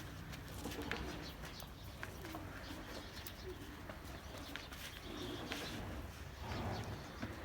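Birds cooing repeatedly, with scattered sharp clicks over a low steady hum.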